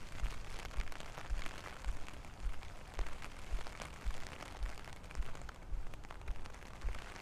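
Steady rain falling, with many small drop clicks spattering over an even hiss. A dull low thud repeats about twice a second, in the rhythm of walking footsteps.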